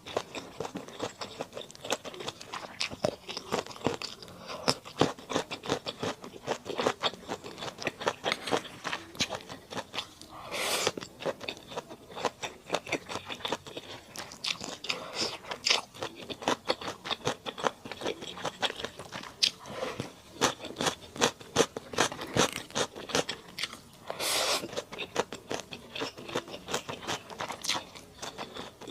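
Close-miked eating of mala duck: steady chewing with many small crisp crunches and mouth clicks, and two longer, noisier sounds about ten and twenty-four seconds in.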